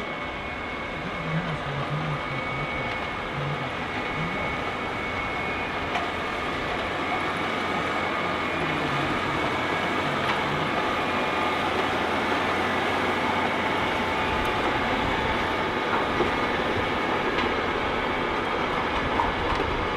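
Tractor working a field with a soil-tillage implement: a steady, loud mechanical din of engine and soil-working gear that grows slightly louder over the first few seconds.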